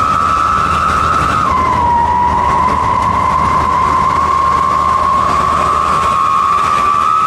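Wolf-howl exhaust whistle (knalpot srigala) sounding a loud, steady whistle-like tone over engine rumble. The pitch dips about a second and a half in, then slowly rises again.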